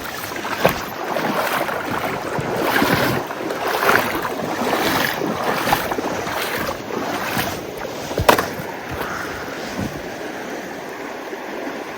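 A flowing river rushing steadily, with irregular footsteps and splashing roughly once a second as someone walks through at the water's edge.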